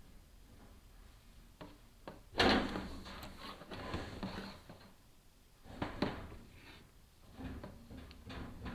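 Bursts of scraping and knocking as a chimney inspection camera and its cable are fed down the fireplace flue and rub against the pipe. The loudest scrape comes about two and a half seconds in, with another sharp knock around six seconds and a run of smaller ones near the end.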